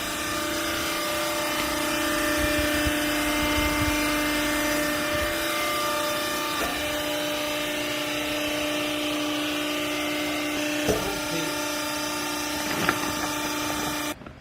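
Used-clothing baler's hydraulic power unit, motor and pump running with a steady hum, stopping abruptly near the end. A couple of short knocks come in the last few seconds.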